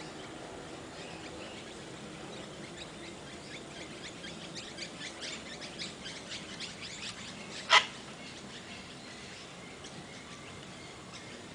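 Pet bird making a quick run of short, sharp chirps, followed by a single loud click a little before the end of the run.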